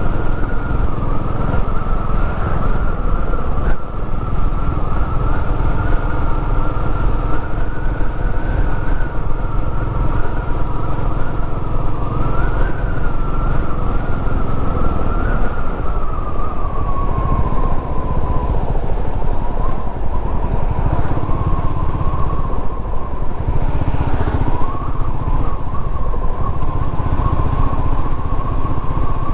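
Royal Enfield Meteor 350's single-cylinder engine running steadily while the motorcycle is ridden. The engine note eases a little lower about halfway through.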